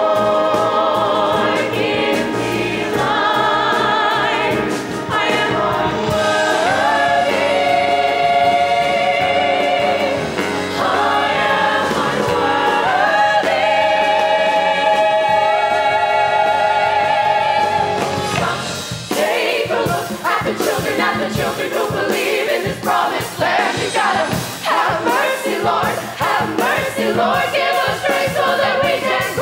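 Ensemble of voices singing a musical-theatre number with accompaniment, holding long notes with vibrato. About two-thirds of the way through, the accompaniment turns choppy and rhythmic while the singing goes on.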